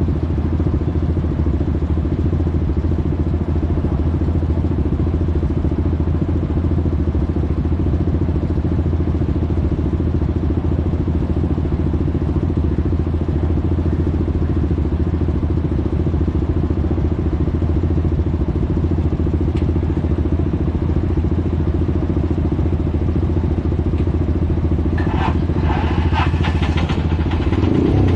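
Motorcycle riding in traffic: a steady low engine and road rumble that holds even throughout. A few seconds of sharper clattering strokes come in near the end.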